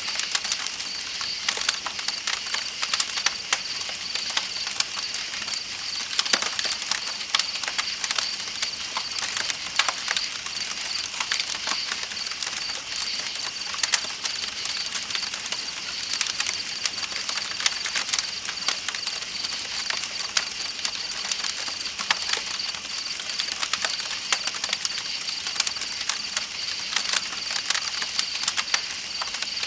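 Campfire crackling with frequent sharp pops, over the steady high-pitched chirring of night insects and an even rush of flowing river water.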